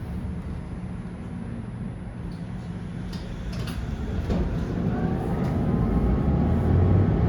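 Tram in motion heard from inside, with a steady low rumble of wheels on rails and a few clicks. About four seconds in it grows louder and a whine rises in pitch as the tram accelerates.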